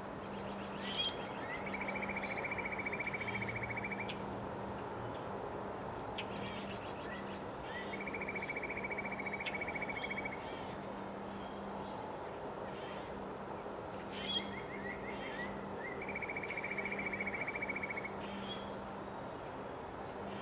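A songbird singing the same song three times, about seven seconds apart: a few quick high notes, then a buzzy trill lasting about two seconds. Under it is a steady rush of wind noise.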